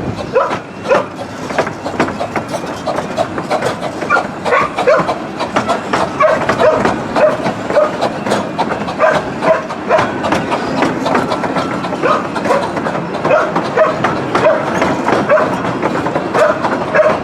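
A 15-inch-gauge miniature railway train running on the track, its wheels and carriages giving a steady run of short clicks and knocks.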